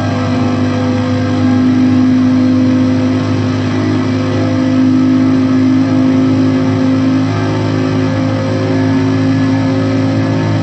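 Bugatti Chiron's quad-turbo W16 engine at full throttle near its top speed, heard inside the cabin as the car climbs past 400 km/h toward 420 km/h. A loud, steady drone with no gear change.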